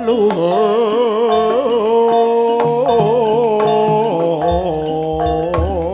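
Live Javanese jaranan gamelan music: a long, wavering held melody line over ringing metallophone notes, with low drum strokes coming in near the end.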